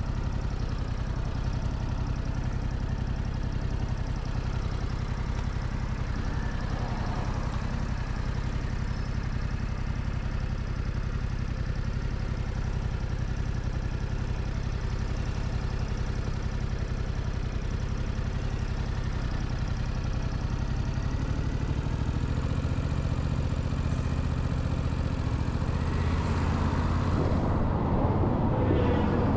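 Motorcycle engine idling steadily, then picking up speed near the end as the bike pulls away, its note rising.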